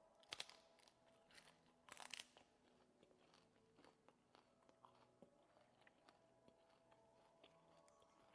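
A person chewing crunchy cabbage close to the microphone: two louder crunches in the first couple of seconds, then faint, scattered chewing clicks.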